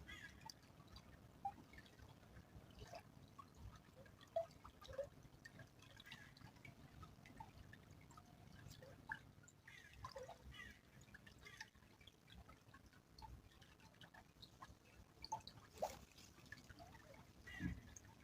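Faint trickle of a small stream, with scattered drips and plinks of water.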